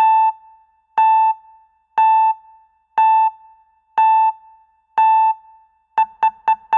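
Electronic beeps on a single pitch. Six come at one a second, then they quicken to about four a second near the end, like a countdown.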